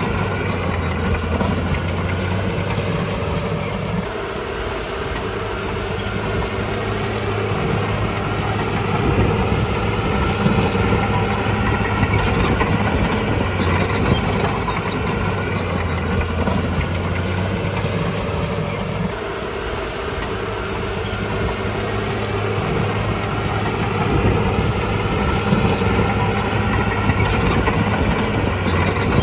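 Heavy diesel engine of a bulldozer running steadily as it works. The engine note drops about four seconds in and again around nineteen seconds in, with a few short clanks.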